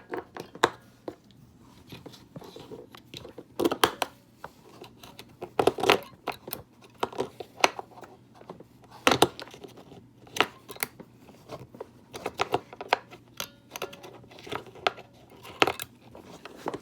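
Irregular clicks and knocks of AA batteries being pushed into a plastic toy's battery compartment and the casing being handled.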